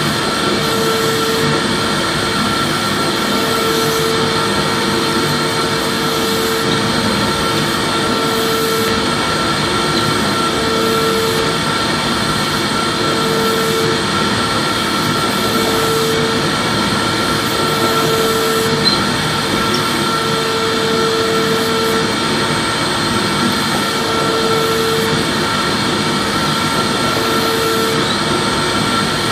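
Vacuum cleaner running steadily: an even rushing noise with a constant high whine, and a lower hum that comes and goes every second or two.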